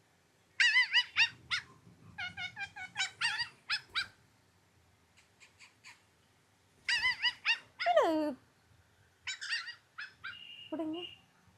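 A small dog yipping in quick high-pitched runs, broken by two long whines that slide down in pitch, one about eight seconds in and one near the end.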